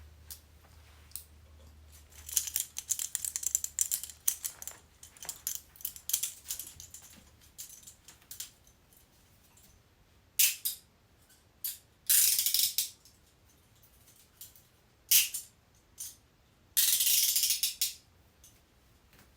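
Metal handcuffs being handled: the chain and cuffs rattle and clink for several seconds. Then come single sharp clicks and two ratcheting runs of about a second each, the sound of a cuff's jaw being ratcheted shut.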